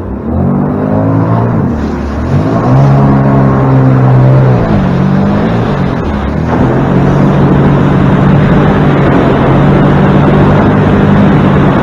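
Motorboat engine running under way, its pitch rising and falling over the first five seconds as the throttle changes, then holding steady from about six and a half seconds in, over a steady hiss.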